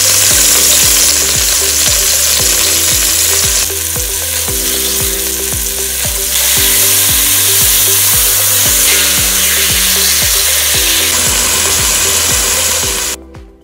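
Seasoned chicken breasts searing in hot neutral oil in a cast-iron pot: a loud, steady sizzle. It grows louder a little after halfway, once the breasts are turned over onto their raw sides, and cuts off shortly before the end. Background music with a steady beat plays underneath.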